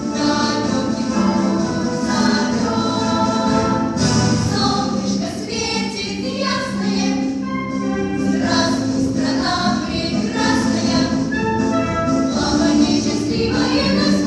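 A children's choir singing a march to pop-ensemble accompaniment.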